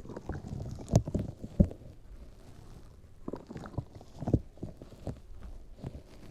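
Soft, irregular taps and thumps close to a microphone, with a low rumble between them, typical of ASMR handling sounds. The strongest knocks come about a second in, again just after one and a half seconds, and in a cluster around four seconds.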